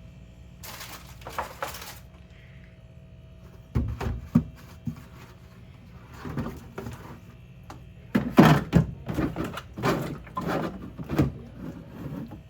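Household items being handled and set down: a few short hissy bursts about a second in, thuds around four seconds, then a run of clattering knocks and thunks later on.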